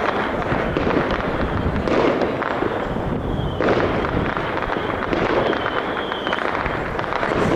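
Aerial fireworks exploding in quick succession: a dense, continuous crackling and popping, with heavier bursts every couple of seconds.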